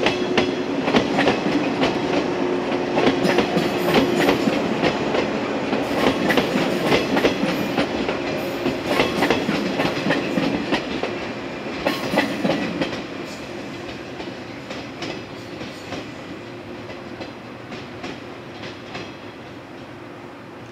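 Yellow electric train running past on jointed track. Its wheels clack over rail joints and points above a steady hum, then fade from about 13 seconds in as it draws away.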